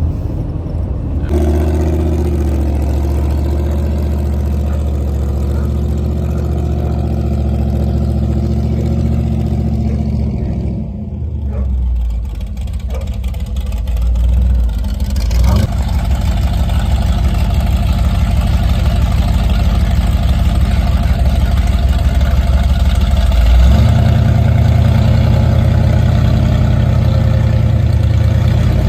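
A vehicle's engine running while driving: a steady low engine drone whose note changes several times, with a short lull about eleven seconds in.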